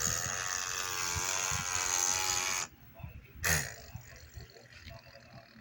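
An electronic talking toy playing a recorded sound through its small speaker, which cuts off abruptly after about two and a half seconds. A brief voice follows, then faint plastic clicks of the toy being handled.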